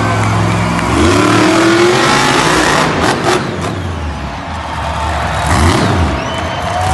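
Monster truck engine running loud and revving, its pitch climbing about a second in and again near the end.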